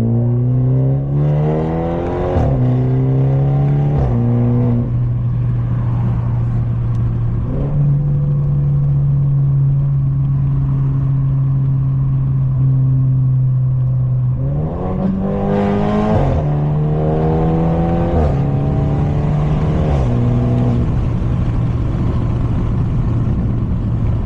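Straight-piped, catless BMW 530 exhaust accelerating up through the gears twice, its note rising and dropping at each quick upshift, with a steady cruising drone between the two pulls and after them.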